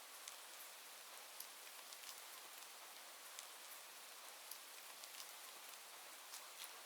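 Faint, steady rain hiss with scattered sharp little ticks.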